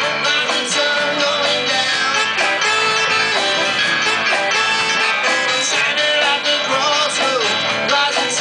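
Live band playing a song, with guitar prominent, loud and steady.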